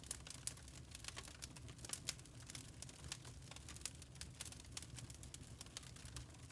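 Burning charcoal crackling: a dense run of irregular sharp pops and snaps, a few louder ones standing out, over a low steady rumble of the fire.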